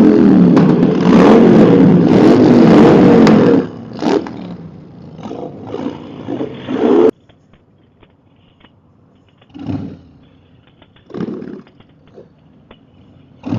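Motorcycle engine revved hard for a few seconds, then given several short throttle blips. About seven seconds in, the sound cuts off suddenly to a quiet stretch broken by three brief bursts.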